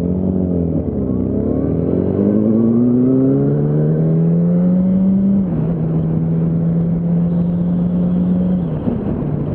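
Yamaha R1 motorcycle's inline-four engine under way, its pitch climbing steadily for a few seconds as it accelerates, then dropping a step about five seconds in and holding steady until it falls away near the end.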